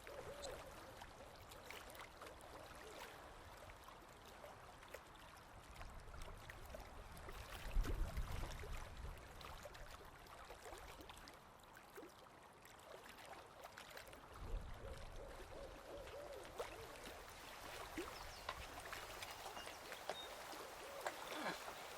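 Small waves lapping and trickling, with many light splashes. A low rumble swells about 8 seconds in and again around 14 seconds.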